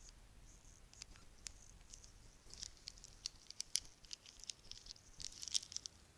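Bracelets clicking and clinking against each other in small, quick, high-pitched bursts, sparse at first and busier from about two and a half seconds in.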